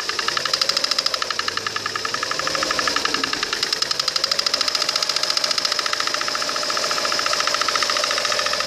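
Lada Kalina 1.4 16-valve engine running with a fast, even ticking knock, about a dozen ticks a second, that grows louder or fades as the timing belt cover is shifted by hand. This points to the timing belt cover as the source of the knock.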